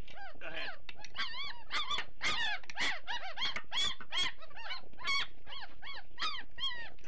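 A litter of Great Dane puppies whining and squealing, with many short, high, arched cries overlapping at a few each second.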